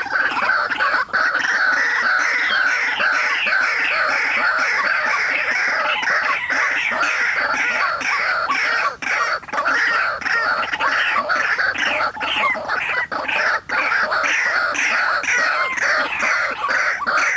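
White-breasted waterhens calling: a loud, unbroken run of rapid repeated notes.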